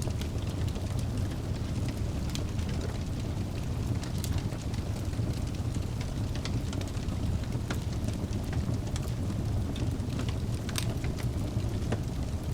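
Wood fire burning in a fireplace: a steady low roar with frequent sharp crackles and pops from the burning logs.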